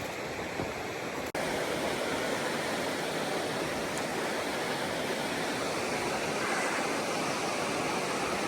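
A steady rushing noise that cuts out for an instant about a second in, then carries on a little louder.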